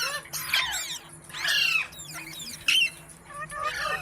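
Rose-ringed parakeets (Indian ringnecks) squawking: a string of short, shrill calls that swoop up and down in pitch, the loudest about a second and a half in.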